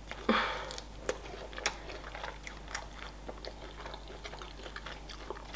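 Close-miked eating of fried chicken wings and fries: one short, louder bite just after the start, then soft chewing with small wet mouth clicks.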